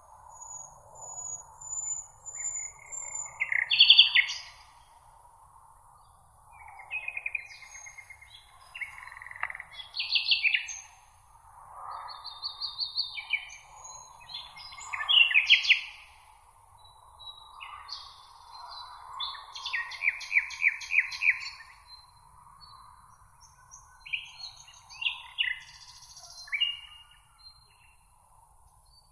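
Several songbirds singing in a meadow: short trills and quick chirping phrases from different birds follow one another with brief gaps. A steady, faint high hiss runs underneath.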